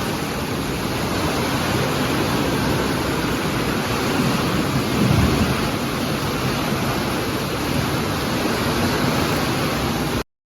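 Heavy monsoon rain falling in a steady, even hiss, with a brief louder low rumble about halfway through. The sound cuts off suddenly near the end.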